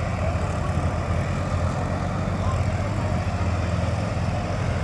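Tractor engine running steadily, a low even drone with a fast regular pulse.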